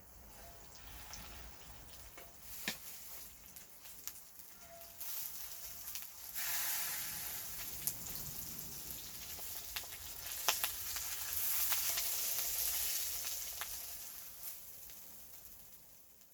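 Food sizzling in a hot pan with sharp pops scattered through it. The sizzle swells louder about six seconds in and again a few seconds later, then dies away.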